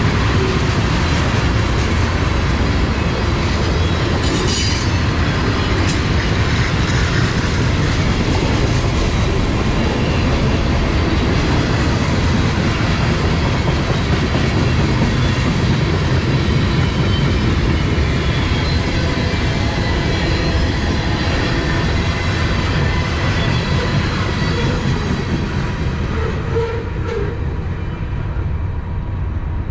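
Freight train passing close by: a steady rumble of cars with steel wheels running on the rails, easing slightly near the end.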